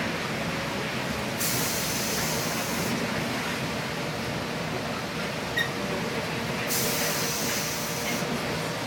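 Cabin noise of a 2007 New Flyer D60LFR articulated diesel bus driving on wet roads: a steady rumble of engine and tyres. Two hissing bursts come through it, each about a second and a half long, one near the start and one near the end.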